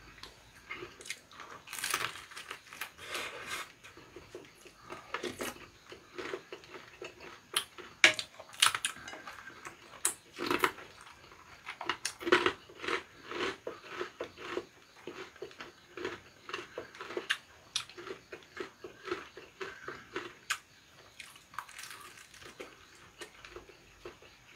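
Close-up chewing and crunching of crisp Korean battered fried food (twigim), with many irregular sharp crunchy bites and mouth sounds.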